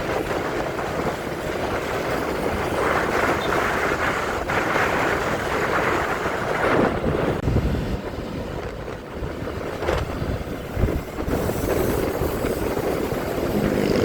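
Riding noise on a moving motorcycle: steady engine, road and wind rush, with a few low gusts buffeting the microphone in the second half.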